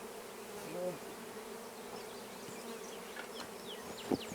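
Honeybees buzzing in a steady hum around an open, freshly stocked hive, with single bees flying close past. A single sharp knock near the end.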